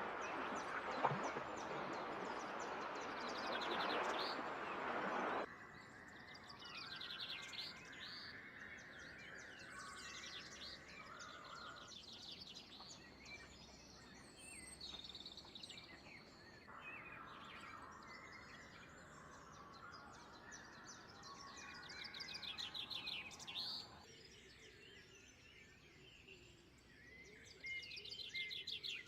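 Wild songbirds chirping and singing short rapid trills, over a steady rushing background noise that is loud for the first few seconds and then drops off suddenly.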